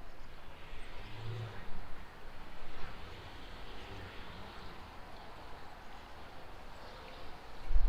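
Rainy city-street ambience: a steady, even hiss with a faint low rumble of traffic.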